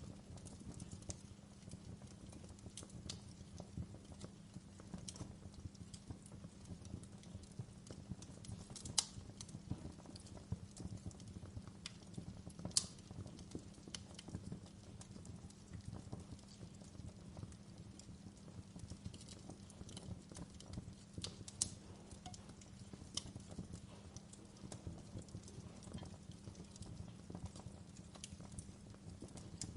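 Wood fire burning in a fireplace: a steady low rumble under dense small crackles, with a few sharper pops, the loudest about nine, thirteen and twenty-two seconds in.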